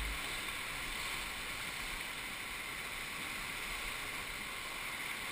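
River water rushing around a raft, a steady, even wash of noise.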